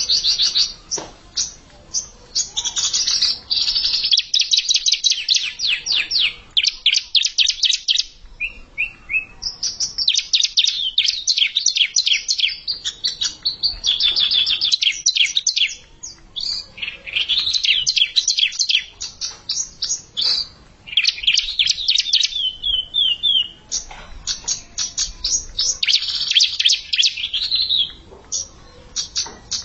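Bar-winged prinia (ciblek) singing: fast, high trills of rapidly repeated notes in phrases of one to four seconds, one after another with only short gaps.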